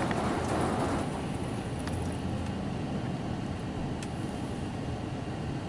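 Automatic car wash spraying a light coat of clear coat protectant over the car's roof and body, heard from inside the car as a steady, rain-like spray noise, easing a little about a second in, with a few faint ticks.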